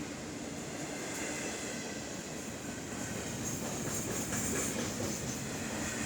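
CSX intermodal freight train's cars rolling past, wheels clattering over the rails with a steady rumble and hiss. Brighter wheel squeal and clicks grow louder about halfway through.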